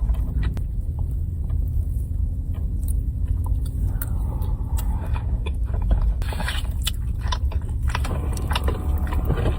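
Close-up eating: biting and chewing with many small clicks and crunches, over a steady low rumble.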